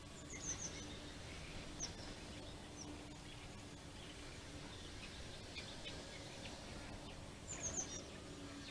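Garden birds chirping: short, high chirps in small clusters, a few near the start and a louder run near the end, over a steady faint hiss.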